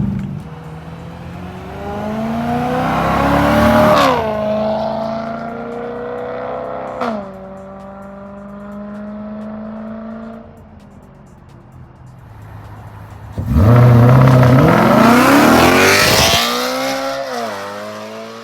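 BMW E93 M3's S65 V8 through a catless resonated X-pipe, revved hard: the pitch climbs and falls back sharply about four seconds in, blips once briefly, then climbs again in a louder, higher-pitched pull that drops off near the end.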